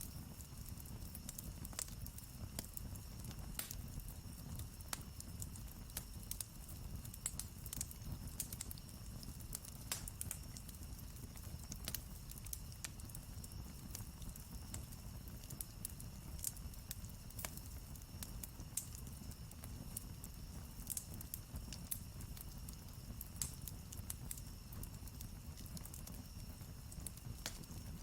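Wood campfire crackling, with irregular sharp pops and snaps scattered throughout over a low steady noise of the burning fire.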